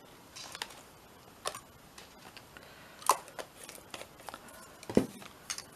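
Scattered light clicks and taps of craft supplies being handled on a desk, with two sharper knocks about three and five seconds in.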